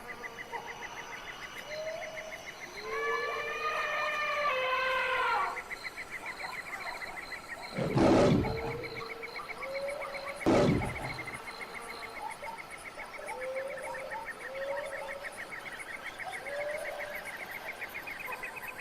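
African wild-animal soundscape: a steady pulsing insect trill throughout, with scattered short chirps. A drawn-out wavering call comes about three to five seconds in, and two loud, short, deep roar-like calls from a large animal come about eight and ten seconds in.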